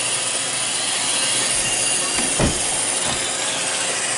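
iRobot Roomba 620 robot vacuum running, a steady whirring noise of its brushes and vacuum motor, with one low thump about two and a half seconds in.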